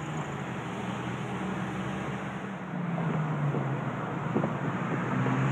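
Car engine accelerating, heard from inside a moving car over steady road noise. Its note rises about halfway through and grows louder near the end, with a few sharp clicks.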